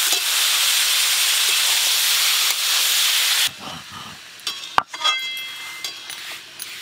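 Chicken pieces sizzling loudly as they fry in hot ghee with browned onions. The sizzle cuts off suddenly about three and a half seconds in, and quieter stirring with a few sharp metal clinks follows.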